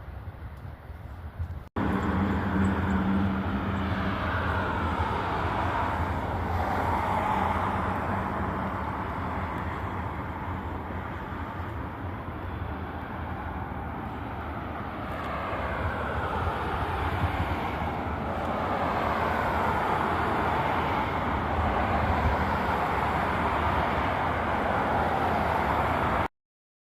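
Motorcycle on the move at steady speed: a steady engine hum under heavy wind rush on the microphone. It starts abruptly about two seconds in and cuts off just before the end.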